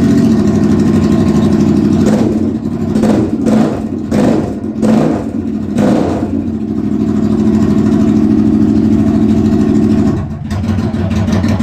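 Triumph America motorcycle's air-cooled parallel-twin engine running with no mufflers on its open exhaust pipes: a steady loud idle, revved in a quick series of short throttle blips a couple of seconds in, then settling back to idle.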